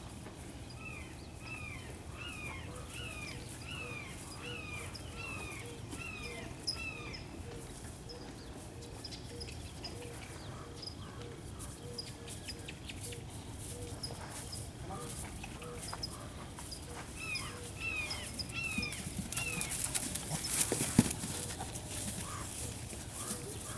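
Birds chirping: a repeated down-slurred chirp about twice a second, in two runs, over steady outdoor background noise. Near the end comes a rush of noise with one sharp knock.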